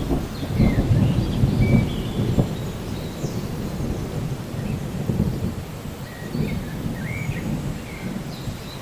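Steady rain with a low rumble underneath, heaviest in the first couple of seconds and then easing, and a few short high chirps scattered through.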